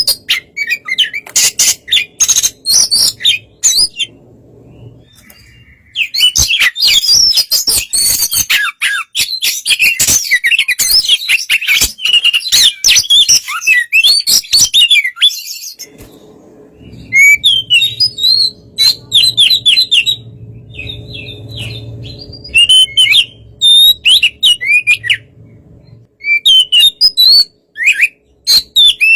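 Oriental magpie-robin (kacer) singing: long runs of rapid, varied whistles and chattering notes, broken by a few short pauses.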